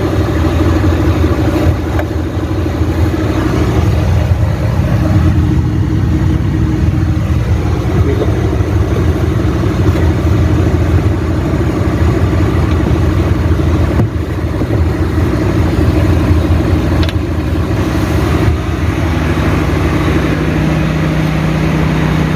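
A large engine idling steadily with a deep, even hum. A further steady low drone joins about nineteen seconds in.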